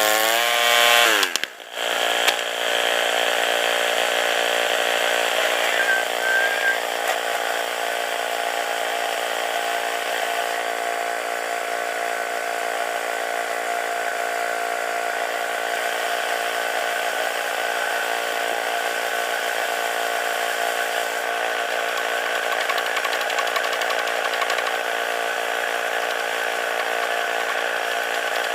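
Portable bandsaw mill's small gas engine running steadily at high revs. The sound breaks off briefly about a second and a half in, then picks up again.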